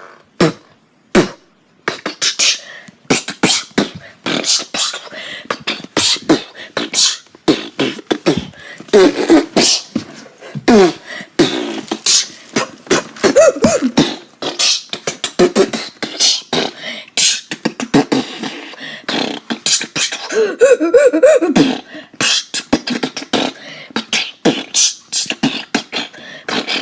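Beatboxing: a fast, uneven run of vocal clicks and percussive mouth sounds, with wavering hummed or sung notes mixed in now and then.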